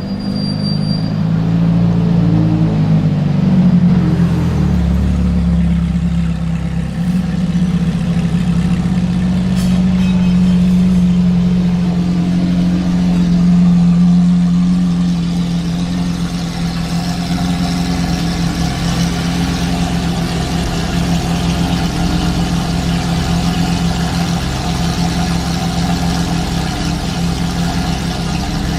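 Lamborghini Aventador's V12 engine, its revs rising and falling in the first few seconds, then running at a steady idle.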